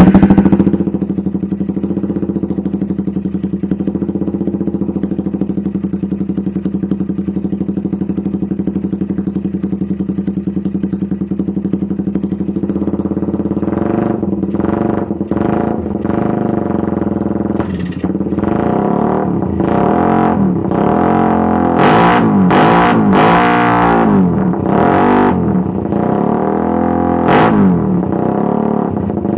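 Suzuki Satria FU motorcycle engine and exhaust firing up, idling steadily, then revved in a series of short throttle blips from about halfway on, the strongest near the end. The exhaust note is meant to sound like a bigger 250cc bike.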